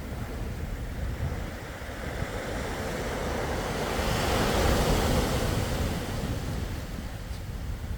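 Sea waves washing in on the shore: one wave swells and breaks about halfway through, then eases off. A low wind rumble on the microphone runs underneath.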